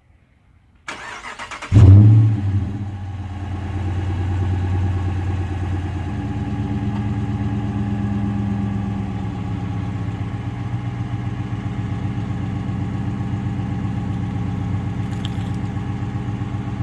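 Dodge Charger R/T's 5.7-litre Hemi V8 being started: the starter cranks for about a second, the engine catches with a loud flare of revs, then settles into a steady idle that cuts off near the end.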